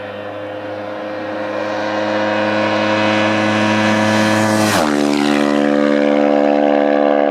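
Sport motorcycle passing at speed on a steady throttle, its engine note swelling as it nears, then dropping sharply in pitch as it goes by about two-thirds of the way through.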